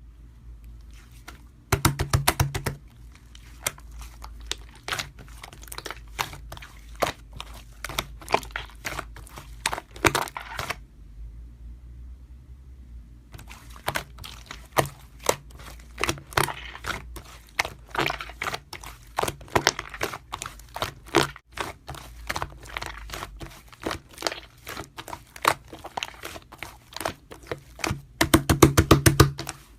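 Close-up crinkling and crackling of handled material, a dense run of small clicks and rustles, with louder bursts of crinkling about two seconds in and near the end, and a short lull in the middle.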